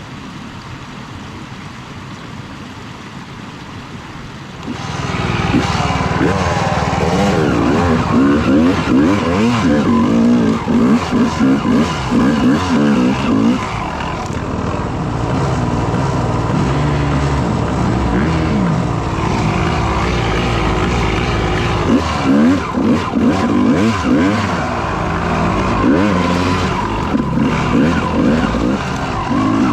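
Dirt bike engine under load while riding off-road, quieter for the first few seconds. About five seconds in it turns loud, its pitch rising and falling again and again as the throttle is worked through the gears.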